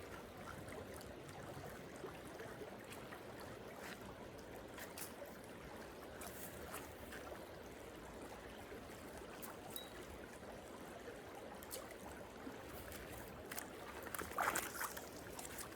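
Small creek running steadily, a soft, even trickle of water, with a few faint clicks scattered through it.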